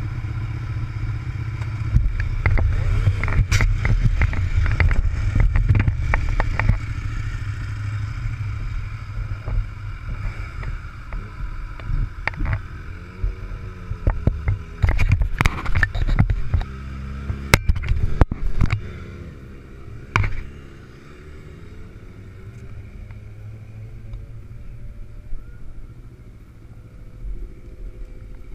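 Motorcycle engine running under way, its pitch rising and falling. Clusters of sharp knocks come from about two to seven seconds in and again around fifteen to twenty seconds. It is quieter after about twenty seconds.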